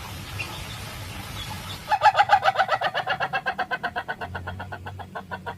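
Ayam ketawa (laughing rooster) crowing: a long run of rapid staccato notes, about ten a second, starting about two seconds in, loudest at first and trailing off.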